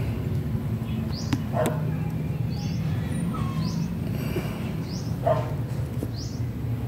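A small bird repeats a short high chirp about once a second. Two louder short animal calls come through, one early and one past the middle, over a steady low hum.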